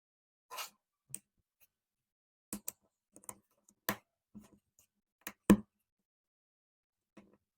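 Plastic Lego bricks clicking as pieces are handled and pressed together: scattered sharp clicks, one much louder snap in the second half.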